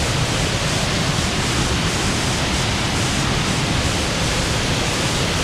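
Steady rushing of a large waterfall and the creek water around it.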